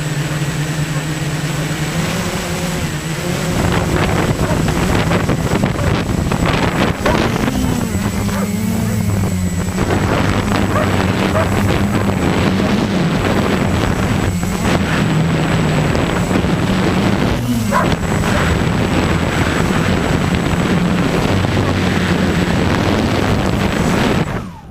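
An engine running steadily under heavy wind and motion noise, its pitch rising and falling a few times. It cuts off sharply near the end.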